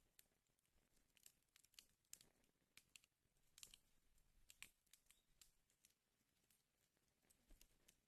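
Faint wood fire crackling in a fireplace, with irregular sharp pops and snaps several times a second.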